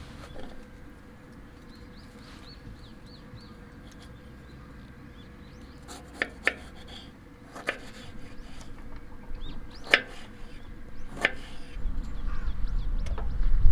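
About five sharp clicks and knocks, spaced a second or more apart, from hands preparing a mojito, with small birds chirping in the background. A low rumble builds near the end.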